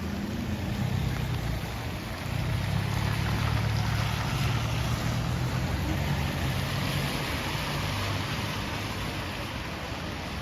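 Steady rain hissing on a city street, with a motor vehicle's engine droning close by. The engine's low hum swells about two seconds in and eases off after about eight seconds.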